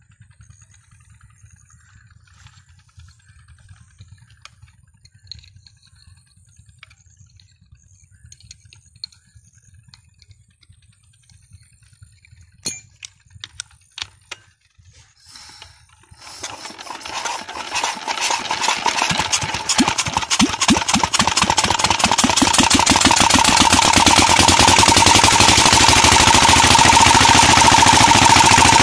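A 16 HP Petter diesel tube-well engine starting. After a few faint clicks, it catches about halfway through, and its rapid, regular firing builds up and settles into a steady loud run. The owner says the engine's head valves are leaking, and engine oil has been poured in to help it start.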